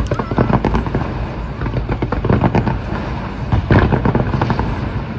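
Fireworks going off in rapid succession: many overlapping bangs and crackles over a continuous rumble, with a burst of stronger bangs a little before the end.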